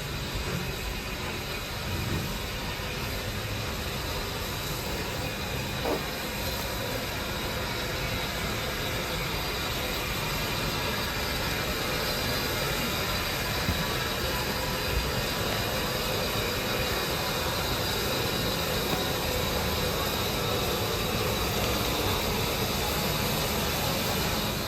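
A train running at the station: a steady rushing noise with a faint high whine, cutting off suddenly at the end.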